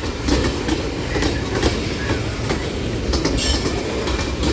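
Freight cars of a New Orleans Public Belt train rolling past close by: a steady low rumble of wheels on rail with repeated clicks as the wheels cross rail joints, and a brief high wheel squeal about three and a half seconds in.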